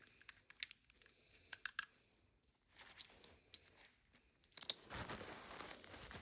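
Faint, scattered clicks of small plastic miniatures being handled and set down, with a stretch of rustling starting about four and a half seconds in.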